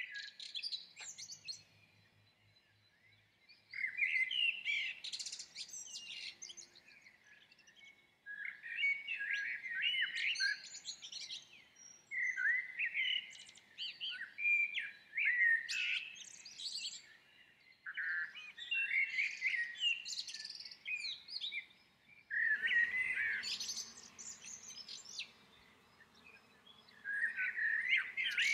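A songbird singing high, warbling phrases of two to four seconds each, repeated about every four to five seconds with short pauses between.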